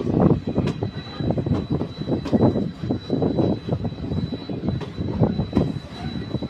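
Train running on the rails, heard from on board: a rumble with irregular surges, a few sharp clicks, and a faint steady high whine.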